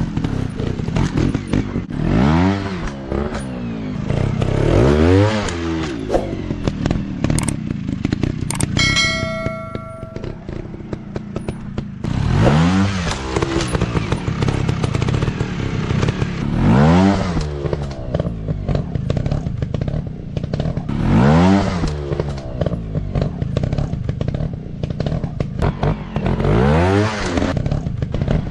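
Single-cylinder dirt bike engines revving up and down again and again, about six rev rises over the steady running of the bikes, with clatter. A brief steady tone sounds about a third of the way in.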